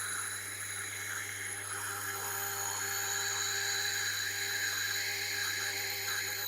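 Tormek T8 wet grinder running with a steady motor hum while a stone is held hard against the turning grinding wheel to round its edges, giving a rough scraping grind over the hum. It cuts off suddenly at the very end.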